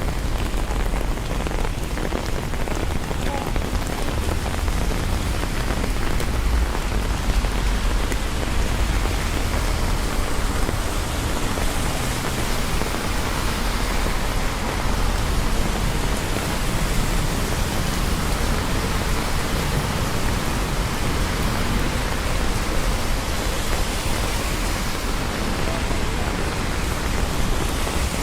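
Steady rain falling in a city, an even hiss with a low rumble underneath.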